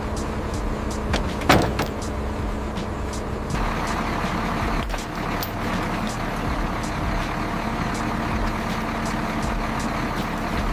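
Flatbed truck running steadily on the move, engine and road noise with a low hum, and one sharp clank about a second and a half in.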